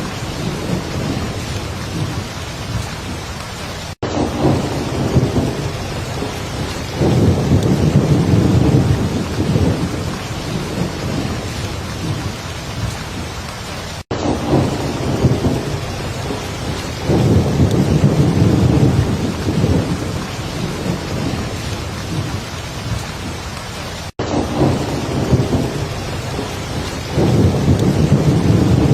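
Heavy, steady rain with deep thunder rumbles that swell and fade about every ten seconds. The pattern repeats, with a brief cut-out in the sound between each rumble.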